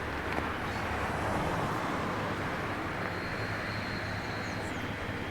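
Boeing 757 jet engines heard from afar on approach: a steady rushing noise that swells a little about a second in, with a thin high whine joining about three seconds in.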